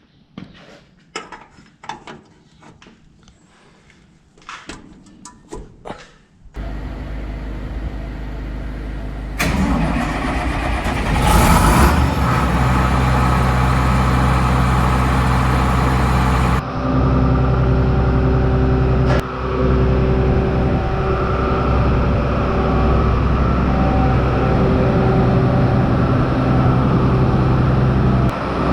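New Holland TX62 combine cold start: a few clicks and knocks, then a low drone comes in, the engine cranks and catches roughly ten to twelve seconds in, and settles into a steady run.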